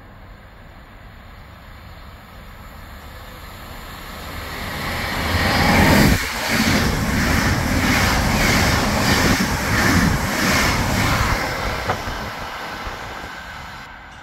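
Belgian Intercity train passing through the station. It builds up, is loudest about six seconds in, and holds with a regular rhythmic clatter of wheels over the rails for several seconds before fading away.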